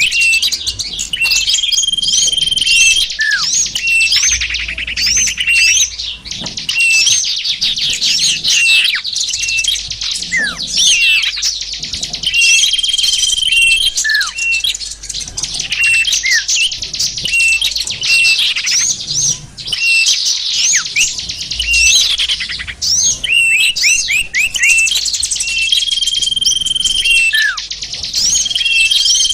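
Bird-lure recording of many small songbirds calling at once: dense, rapid chirps and twitters, a held whistle that comes back now and then, and short falling whistles. The same passage seems to repeat about every twelve seconds, as in a looped lure track.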